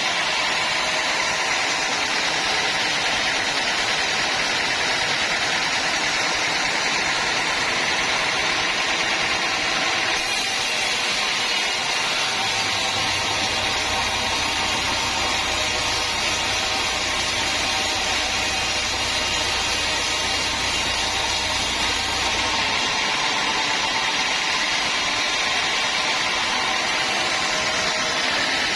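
Sawmill machinery running steadily. A deeper hum joins about halfway through and stops again a few seconds before the end.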